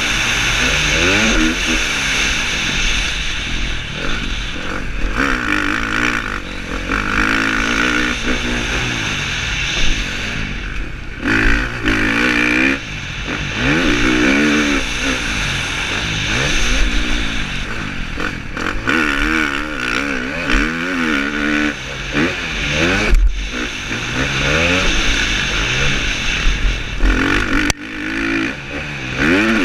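KTM 350 SX-F motocross bike's single-cylinder four-stroke engine revving up and down over and over as the rider works the throttle and gears around the track, heard from a helmet camera.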